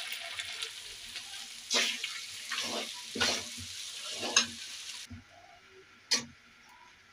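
Boiled potatoes sizzling in hot spiced oil in a kadhai while a steel ladle stirs them, scraping the pan four times. The sizzle drops away about five seconds in, and there is a single sharp knock about a second later.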